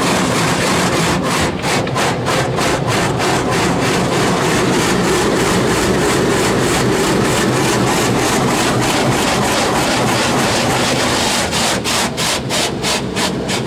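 Automatic tunnel car wash equipment working over the car, heard from inside the cabin: a steady rush of spray and brushes with a rapid, even slapping at about four beats a second, plainest near the end.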